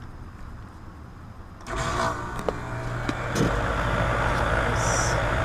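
Rooftop air conditioner condensing unit starting up: the compressor and condenser fan kick on suddenly about two seconds in, the low hum stepping up again a moment later, then running steadily.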